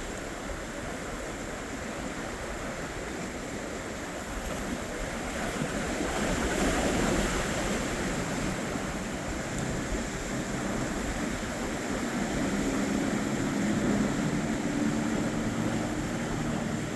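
Wind and surf at an inlet, with waves washing and a swell of water noise about six seconds in. From about eleven seconds a boat's engine drone comes up under it, growing steadily louder.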